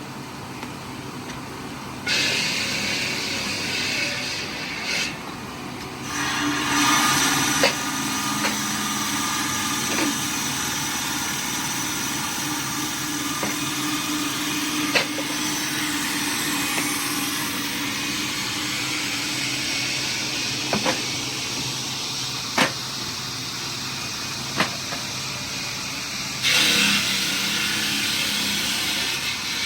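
Heavy machinery running steadily with a low hum, with short sharp knocks now and then.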